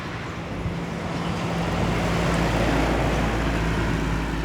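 A motor vehicle's engine running steadily, with a deeper rumble coming in about a second and a half in as it gets louder.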